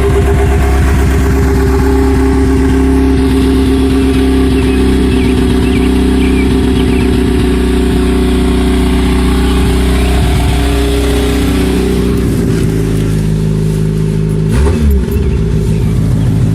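1987 Pontiac Sunbird's four-cylinder engine running steadily soon after a cold start, with a head gasket replaced a couple of days earlier. About twelve seconds in, its pitch shifts to a different engine speed, and a short swoop in pitch follows a couple of seconds later.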